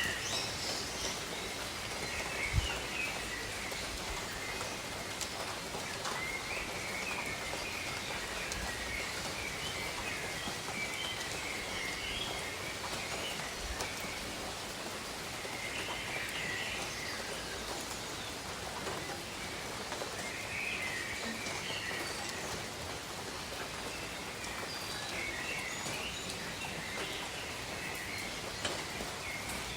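Steady rain falling over rainforest foliage, with birds calling in short chirping phrases every few seconds and a single knock of a heavier drop about two and a half seconds in.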